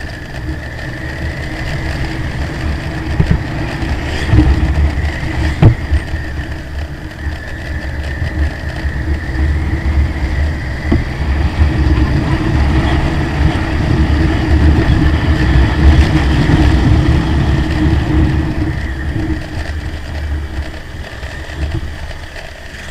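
Motorcycle running on the move: a steady engine drone with a heavy low rumble, swelling in loudness a few seconds in and again midway.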